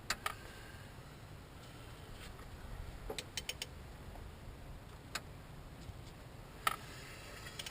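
Scattered light clicks and taps of metal hand tools against the engine: a quick run of about four clicks around three seconds in, a single click a little later, and a sharper tap near the end, over a faint steady hum.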